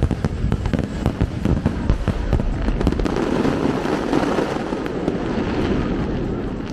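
Fireworks going off in a rapid volley: many sharp bangs close together, merging into a dense crackling rumble in the middle and easing off near the end.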